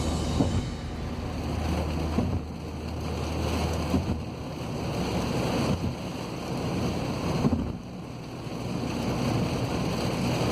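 Heavy rain and wet-road noise heard inside a moving car: a loud, rushing wash that swells and eases, with a small click about every two seconds.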